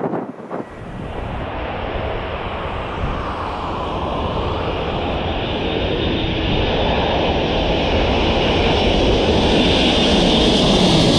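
Boeing 747-200F's Rolls-Royce RB211 turbofan engines running, growing steadily louder, with a deep rumble under a high whine that strengthens near the end.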